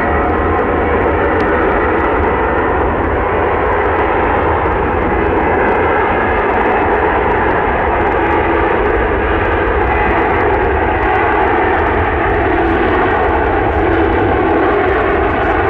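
Jet airliner engines running, a loud, steady noise with a deep rumble underneath that holds for the whole stretch.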